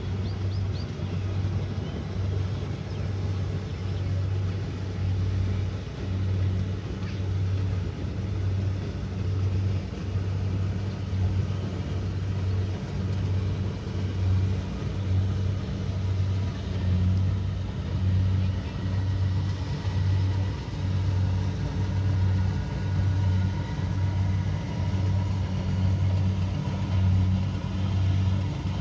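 Kubota DC70pro combine harvester running steadily, a low engine hum that pulses evenly about once a second.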